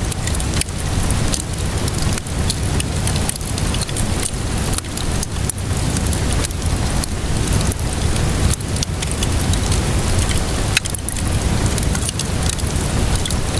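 Steady rainfall mixed with a wood fire crackling, many small sharp pops scattered over a continuous hiss with a low rumble beneath.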